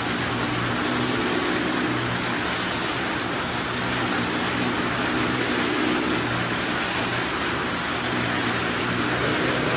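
Several small cars' engines running as the cars circle the vertical wooden wall of a well of death, the sound swelling every few seconds as a car passes close.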